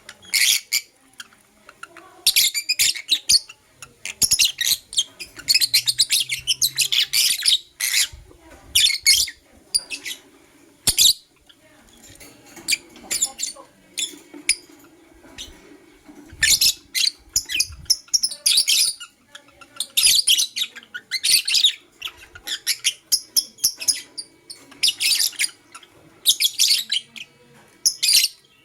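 Blue opaline lovebird chirping in rapid, high-pitched bursts, one after another with short pauses between.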